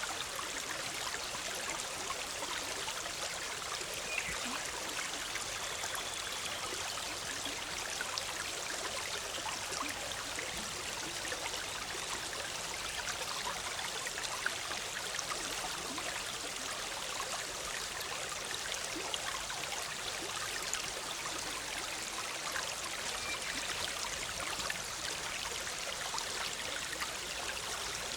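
Forest stream bubbling and trickling over rocks, a steady, even rush of water with fine splashes throughout.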